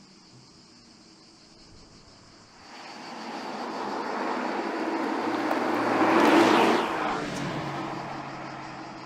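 A car driving past: it comes in about a third of the way through, grows louder to a peak a little past the middle, drops in pitch as it goes by, and fades away. The sound is mostly tyre and wind noise.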